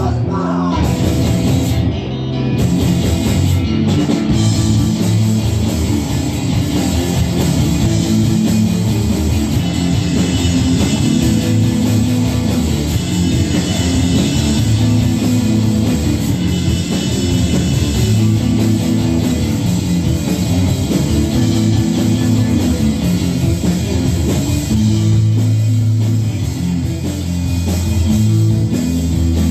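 Loud rock music with guitar and a drum kit, playing steadily.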